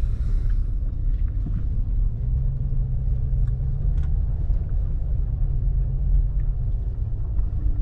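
Car engine running and low rumble heard from inside the cabin while driving slowly over a rough off-road trail, with a few small knocks and rattles.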